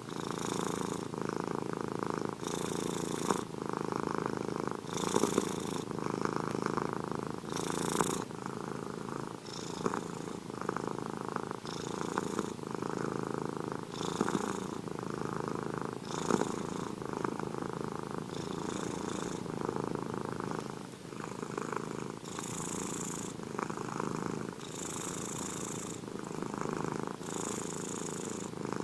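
Domestic cat purring steadily, with a short hiss recurring about every two seconds in time with its breathing.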